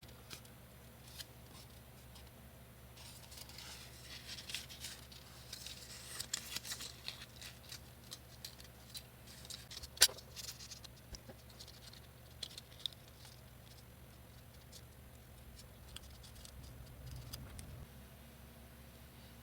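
Faint paper-craft handling: scattered rustles and light clicks of paper and tools, with one sharp click about ten seconds in.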